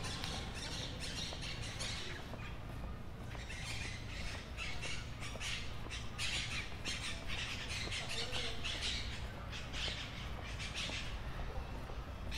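Birds in the street trees calling in a fast run of short, high calls that pauses about two seconds in, picks up again and stops shortly before the end, over a low, steady city rumble.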